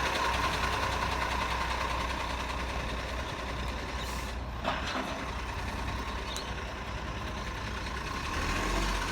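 Recycling garbage truck running steadily, its engine humming under an even mechanical noise, with a short knock about halfway through.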